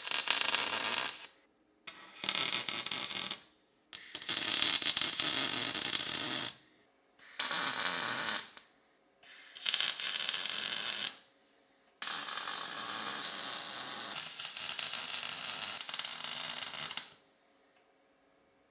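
Repeated bursts of metalworking tool noise on steel body panels, each a second to five seconds long, stopping and starting with short pauses between them, as in grinding or welding sill sections.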